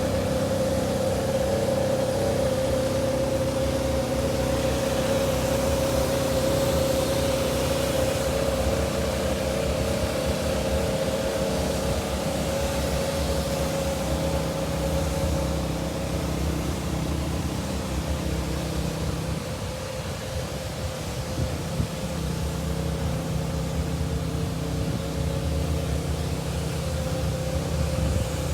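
Diesel engine of a Kubota U48-4 mini excavator running steadily, with a constant whine over the engine note; it eases off slightly a little past halfway, then picks up again.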